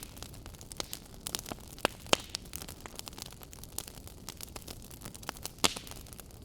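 Wood fire crackling in a fireplace: a steady low hiss under irregular snaps and pops, with a few louder pops about two seconds in and again near the end.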